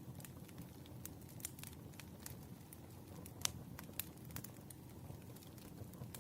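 Wood fire crackling: irregular sharp pops and snaps over a low steady rumble of burning logs, with one louder pop about three and a half seconds in.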